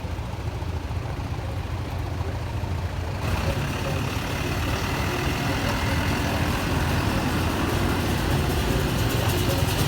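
Steady low rumble of a motor vehicle running, with road or wind noise that grows louder about three seconds in.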